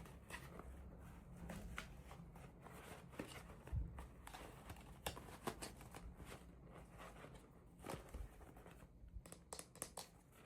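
Hands opening miniature toy packaging: soft rustling and crinkling with scattered small clicks and taps.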